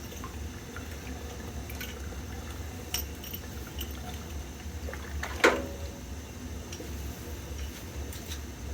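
Water dripping and trickling at a steam boiler's sight-glass fittings over a steady low hum, with small tool clicks and one sharp metallic clink that rings briefly about five and a half seconds in.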